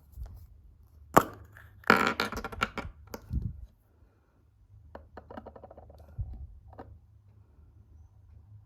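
A surprise egg being opened by hand: a sharp crack, then about a second and a half of crinkling and rattling, then a run of light clicks and taps.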